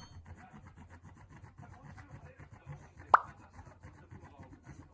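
A single short plop sound about three seconds in, over faint rustling and light ticking.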